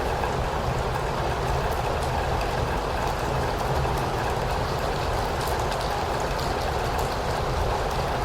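Steady rain: an even hiss with a low rumble underneath and faint scattered drip ticks.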